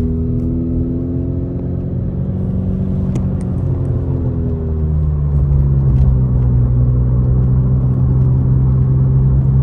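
Vehicle engine running with a steady low rumble; its pitch sags a little a few seconds in, then holds steady.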